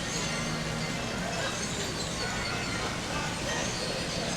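Theme-park area music playing faintly under a steady rush of wind noise.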